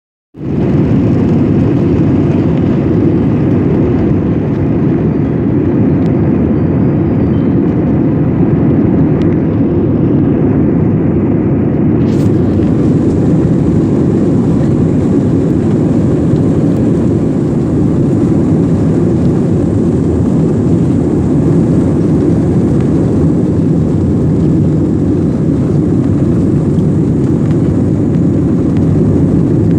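Airliner cabin noise during takeoff: the jet engines at high thrust heard from inside the cabin as a loud, steady, deep rumble that holds an even level.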